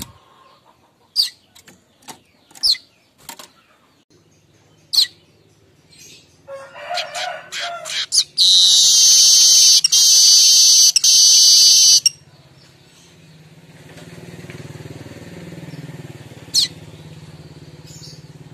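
Streaked weaver (manyar kembang) song: a few sharp single chirps, then a run of chattering that builds into a loud, harsh, sizzling buzz about four seconds long, broken twice, before it stops suddenly.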